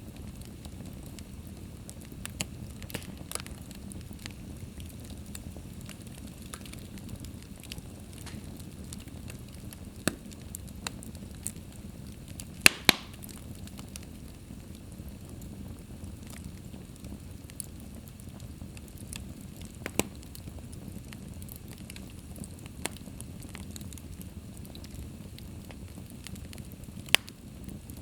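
Wood fire burning in a fireplace: a steady low rumble of flames with sharp, irregular crackles and pops, the loudest pair of snaps about halfway through.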